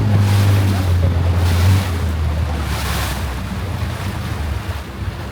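Longtail boat engine running with a steady low drone, under the rush of water and wind on the microphone; the drone eases slightly about two seconds in.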